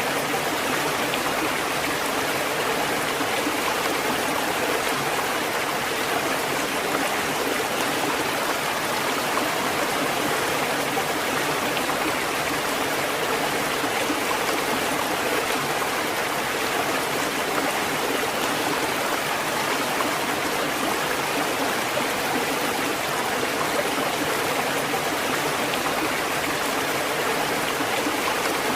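Steady, even rush of running water that holds one level throughout, without the rise and fall of separate waves breaking.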